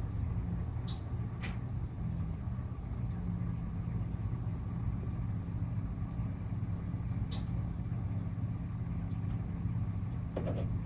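A motor vehicle engine idling steadily, a low even hum, with a few faint clicks over it.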